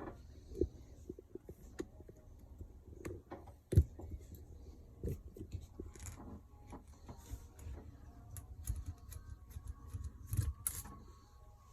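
Scattered clicks, taps and light clatter of small parts and tools being handled while taking apart an RC crawler truck, with a sharper knock about four seconds in and a cluster of clicks near the end.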